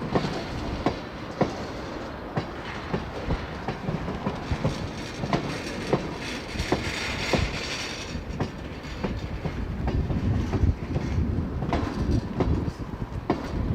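A freight train of tank cars rolling past, its wheels clicking over the rail joints in a steady uneven run over a continuous rumble, with a brief rise of hiss about halfway through.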